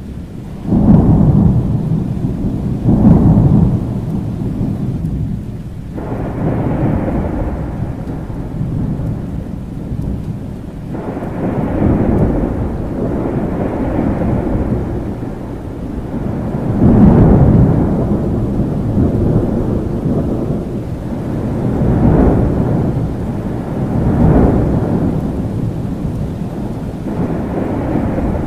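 Thunderstorm: steady rain with thunder rumbling again and again. Two loud peals come about one and three seconds in, then long rolling rumbles every few seconds.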